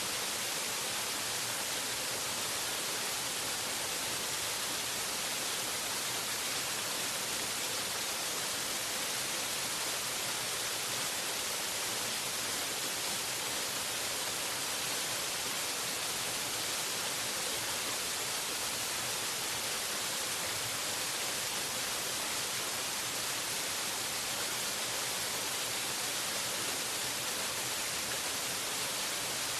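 Waterfall's steady rushing hiss, unchanging throughout, heavier in the high end than in the low.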